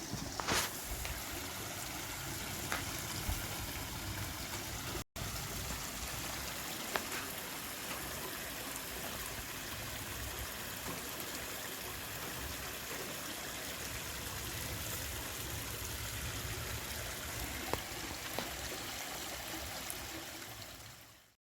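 A stream's water running in a steady rush, with a brief gap about five seconds in, fading out near the end.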